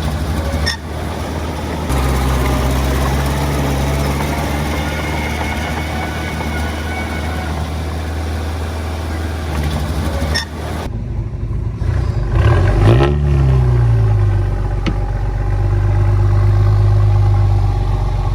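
Diesel engine of a heavy earthmoving machine running, with a clattering noise over it for the first half. Around two-thirds of the way through the revs rise and then drop, after which the engine runs steadily.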